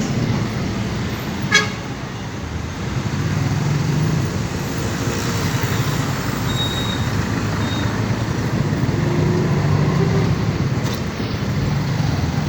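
Lorry driving in town traffic, heard from its open back: a steady engine rumble with road and wind noise, and a short vehicle horn toot about one and a half seconds in.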